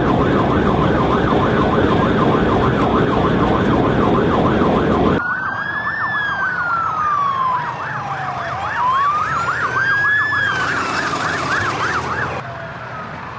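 Police car sirens in a pursuit. A fast yelp sweeps up and down about three times a second, and from about five seconds in a slower wail falls and rises alongside it. A heavy rushing noise under the sirens cuts off suddenly about five seconds in, and the yelp stops about a second before the end.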